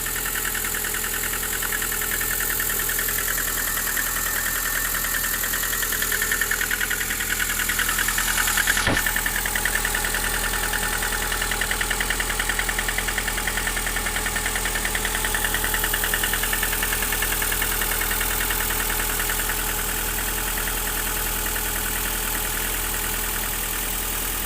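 Lada VAZ 11182 1.6-litre four-cylinder engine idling with an unexplained knock, which the owner finds goes away once the engine has warmed up. A single sharp click sounds about nine seconds in.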